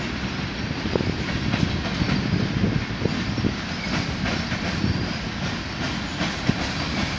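Freight train cars (tank cars and covered hoppers) rolling past: a steady rumble of steel wheels on the rails with irregular clicks and knocks as the wheels cross rail joints.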